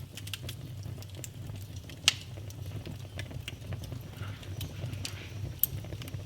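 Wood fire burning in a fireplace: a steady low rumble of flames with irregular crackles, and two sharper pops, one about two seconds in and one near the end.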